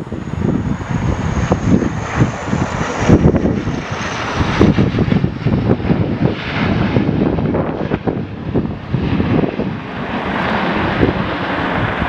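Airliner engines running, mixed with gusty wind buffeting the microphone. A thin high whine fades away over the first three seconds.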